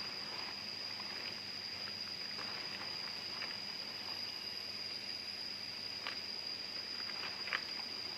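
Steady high-pitched insect drone, with a few light clicks and snaps, one sharper about three-quarters of the way in.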